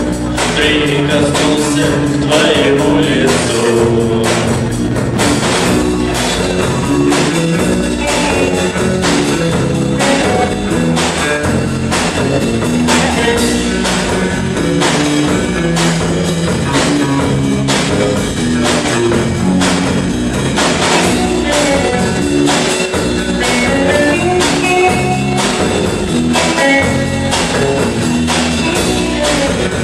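A rock band of drum kit, electric guitars and bass guitar playing a song, with a steady drum beat of about two hits a second under changing guitar chords and bass lines.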